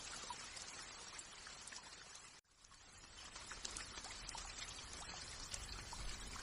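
Faint steady rain with scattered drops ticking. It cuts out briefly about two and a half seconds in, then fades back up.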